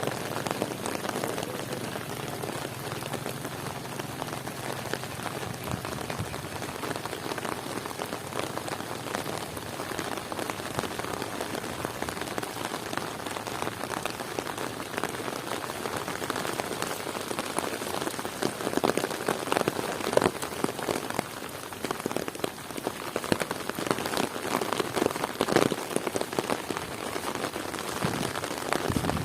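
Heavy rain falling steadily, a dense patter of drops striking close by, which grows louder and sharper in the second half.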